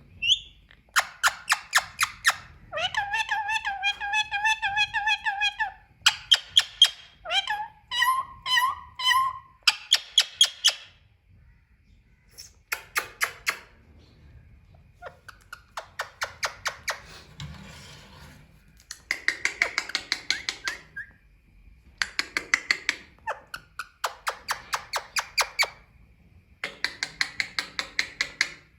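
Female Indian ringneck parakeet calling in a long series of bursts of rapid, ratcheting chatter, each a second or two long with short pauses between. A longer wavering, pitched call comes about three seconds in, and a few gliding notes around eight to ten seconds in.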